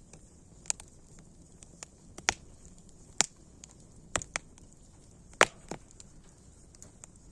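Campfire wood crackling: sharp pops at irregular intervals over a faint steady hiss of burning, with a few louder snaps in the middle.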